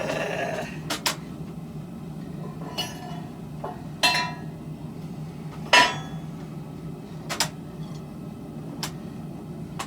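Sharp metallic clanks of steel striking steel, about six at irregular intervals, each with a short ring, over a steady low hum.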